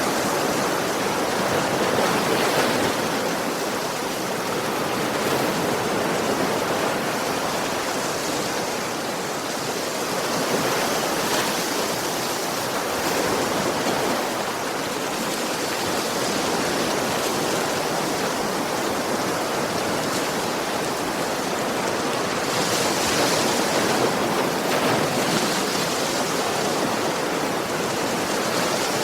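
Sea waves breaking on a shore: a steady rush of surf that swells and eases gently every few seconds.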